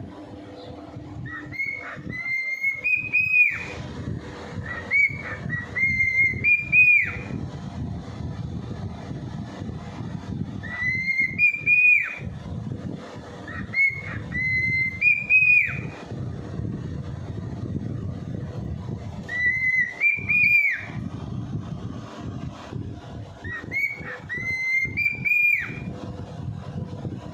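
A cockatiel whistling the same short phrase about six times, each phrase a second or two long, held high and ending on an upward sweep, with pauses between. A steady low rumble runs underneath.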